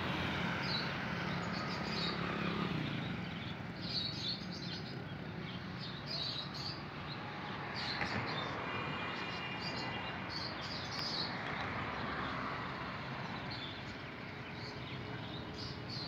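Small birds chirping in short, repeated bursts over the steady noise of road traffic, with vehicles passing a few times.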